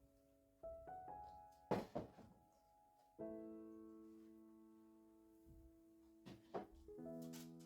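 Soft background piano music, slow held chords that fade between each new one. A few sharp knocks cut through it, two close together about two seconds in and a cluster near the end; these are louder than the music.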